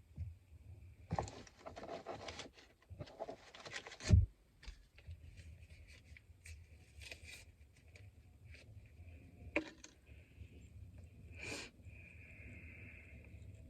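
Rustling and scraping of takeout food packaging being handled, with one loud knock about four seconds in and a few lighter clicks later, over a low steady hum.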